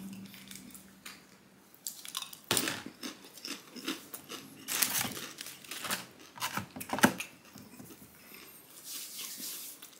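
A person chewing a mouthful of food close to the microphone: quiet at first, then an irregular run of sharp clicking crunches from about two and a half seconds in, fading to fainter mouth sounds near the end.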